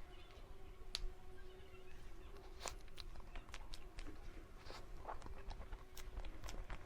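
Quiet close-up eating sounds: scattered soft clicks and mouth noises of chewing a cake dessert, over a faint steady hum.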